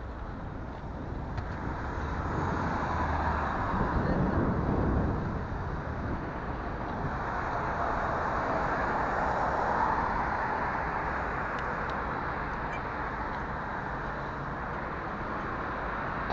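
Road traffic noise, with vehicles passing close by: the noise swells as one goes by about four seconds in and another around ten seconds.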